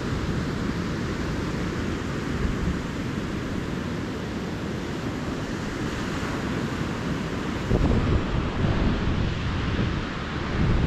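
Calm ocean surf washing steadily onto the beach, with wind buffeting the microphone. A louder low surge comes about eight seconds in and another near the end.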